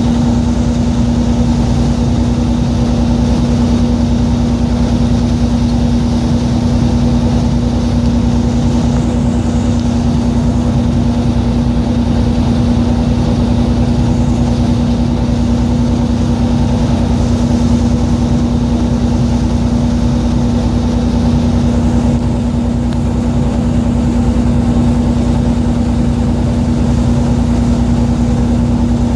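Fishing boat's engine running steadily, a loud, even drone with one strong low hum.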